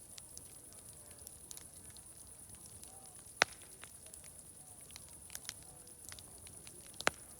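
Wood fire crackling: many small irregular clicks over a steady high hiss, with two sharp louder pops, one about three and a half seconds in and one near the end.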